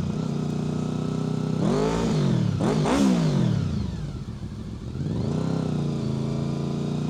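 Honda VFR800 FI's V4 engine through a Black Widow aftermarket exhaust, idling steadily, then blipped twice about two and three seconds in. The revs rise and fall each time, dip briefly, and settle back to a steady idle.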